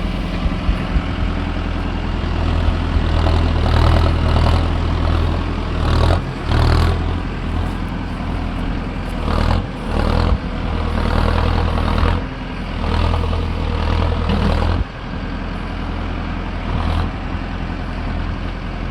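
Diesel engine of a tractor-mounted loader running and revving up and down repeatedly, with several short bursts of noise over it; about fifteen seconds in it drops back to a lower, steady idle.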